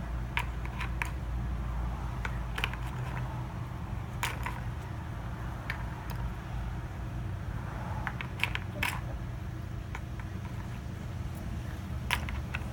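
Scattered light clicks and taps of small plastic toy blocks being handled and sent down a toy slide, over a steady low hum.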